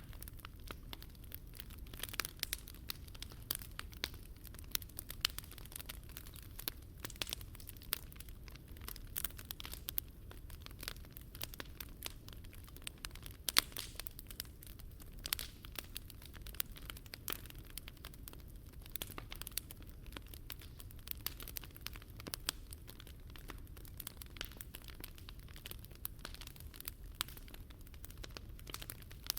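Wood fire crackling in a Picogrill 398 fire pit: a dense, irregular run of sharp snaps and pops over a steady low rumble, with one louder pop about halfway through.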